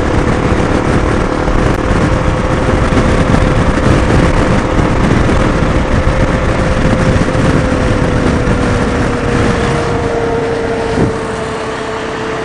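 Motorcycle under way: heavy wind rush and road noise with a steady engine drone, picked up by a helmet intercom microphone. The engine note drops slightly in pitch late on, and there is a short knock about eleven seconds in, after which it gets a little quieter.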